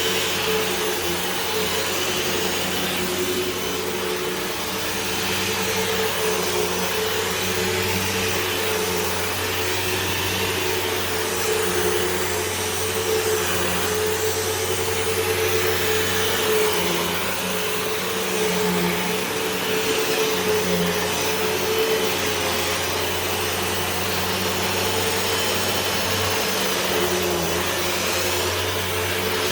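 2020 Hoover WindTunnel 2 Whole House Rewind upright vacuum cleaner running steadily: a constant motor hum under the rush of air.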